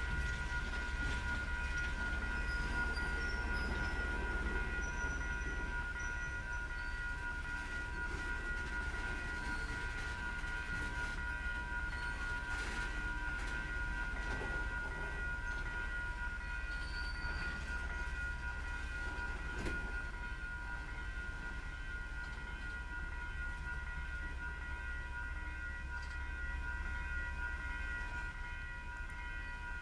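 LSRC ballast work train running, a low rumble with several steady high tones held throughout and a few faint clicks.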